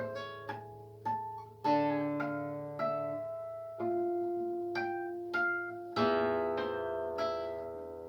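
Solo plucked string instrument playing a slow melody of single notes and chords, each note plucked and left to ring and fade, with a fuller chord about six seconds in.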